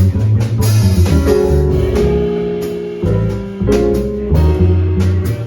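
Small jazz group playing live: piano chords and melody over walking bass notes, with drums and cymbals keeping time.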